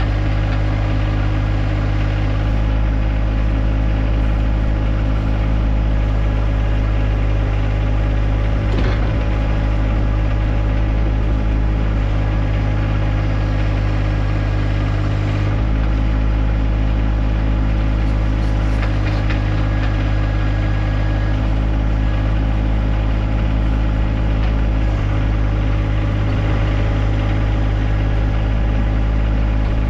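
John Deere 1025R compact tractor's three-cylinder diesel engine running steadily at a constant speed, with a couple of faint knocks.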